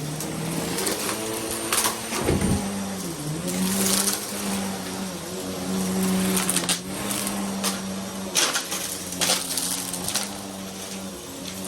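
Vacuum cleaner motor running with a steady hum and whine. The pitch dips briefly about two to three seconds in. Scattered clicks and rattles come through, like debris being sucked up.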